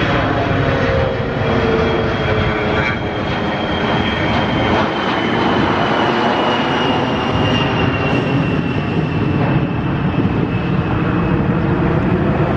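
Fairchild Republic A-10 Thunderbolt II jet engines under takeoff power, giving a loud, steady jet noise. A high fan whine slowly falls in pitch as the jet goes by.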